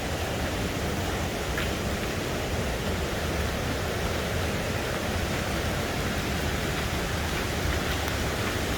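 Steady, even rush of flowing water from a waterfall.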